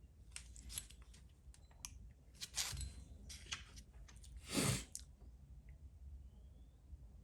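Hands handling small parts and tools during model-kit assembly: scattered light clicks, crackles and rustles, with a louder brushing scrape about two-thirds of the way through.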